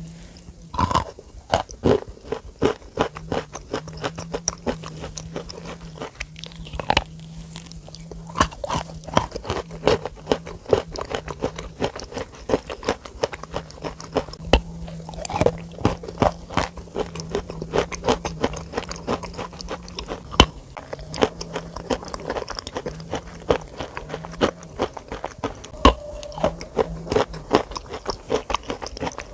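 Close-miked ASMR eating: dense, irregular crunching and chewing, with a faint low hum that comes and goes underneath.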